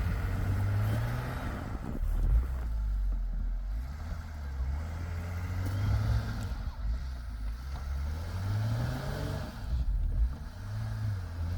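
A motor vehicle engine running and revving up and down repeatedly, its pitch rising and falling several times.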